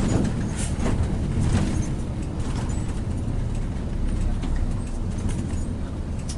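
Bus running, a steady low rumble of engine and road noise.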